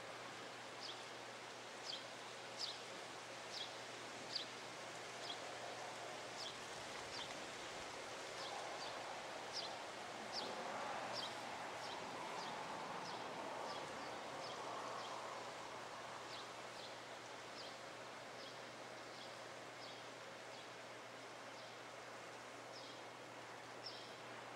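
A small bird chirping over and over outside: short, sharp, high chirps about once or twice a second, over a steady background hiss that swells for a few seconds in the middle.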